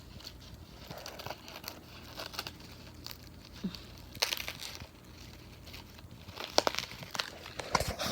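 Crinkling and rustling of a toy being handled and chewed at, with scattered sharp clicks, irregular and busiest near the end.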